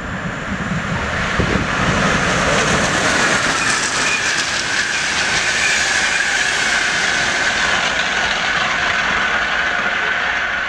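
Locomotive-hauled passenger train passing at speed on an electrified line, a loud rushing of wheels on rail with a steady high whine. Fine crackling comes through the rush as the pantograph sparks on the frost-covered overhead wire. It swells over the first two seconds as the train arrives and eases slightly near the end as it pulls away.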